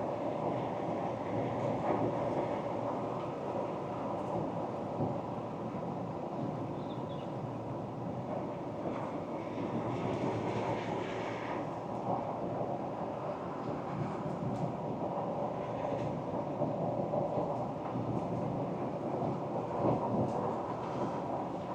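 Ford Ranger Wildtrak pickup on the move: steady tyre and road rumble mixed with the drone of the engine, with a short hiss about ten seconds in.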